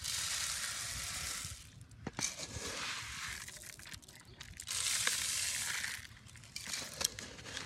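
Rustling, crunching noise in two loud stretches, one at the start and one a little past the middle, with fainter rustling in between.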